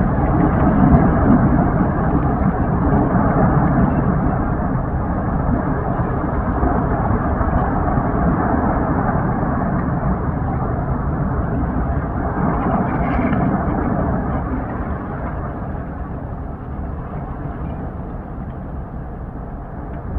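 Lava fountain at the Fagradalsfjall vent jetting lava, a loud continuous low roar that eases off somewhat in the last few seconds.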